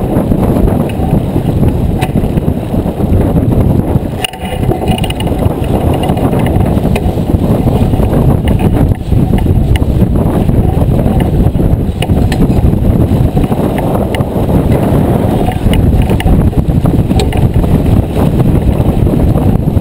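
Wind buffeting the microphone on a J24 sailboat under sail: a loud, steady, low rumble, with faint scattered clicks over it.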